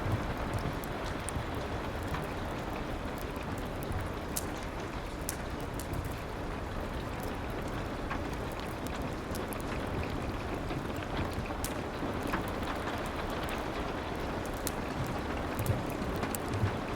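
Steady rain, dotted with scattered sharp crackles from a wood fire.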